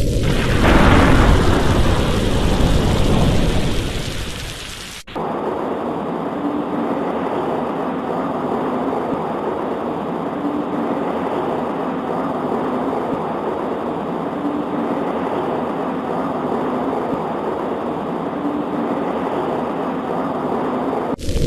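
A roll of thunder over heavy rain swells about half a second in and fades away over the next four seconds. The sound then cuts abruptly to a steady rain hiss with much less low rumble, which holds evenly until it cuts back to the heavier rain just before the end.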